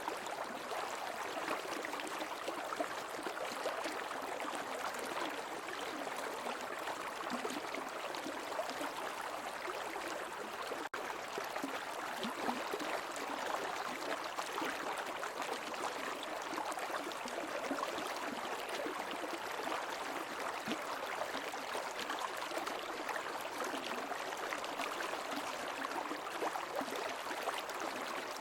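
Shallow stream water flowing and burbling steadily over rocks. There is a momentary dropout about eleven seconds in.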